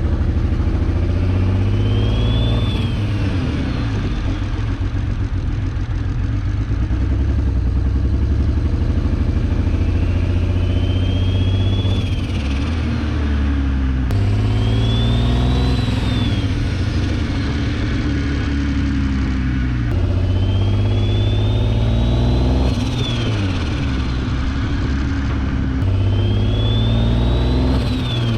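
Single-turbo BMW 335i engine accelerating hard in repeated pulls while running with a misfire. A turbo whine rises and then drops off sharply about five times, each time the throttle is lifted or a gear changes.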